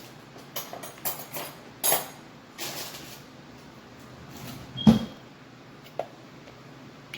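Kitchen utensils and containers being handled during mixing: a series of knocks, scrapes and clatters, with one sharp clink about five seconds in.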